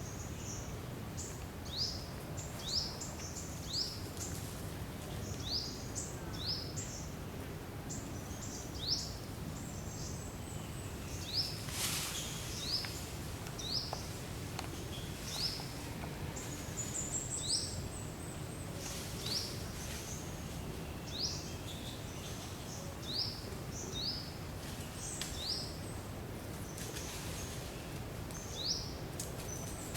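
A bird calling over and over with short, high notes that sweep upward, about one a second, over a steady low background hum.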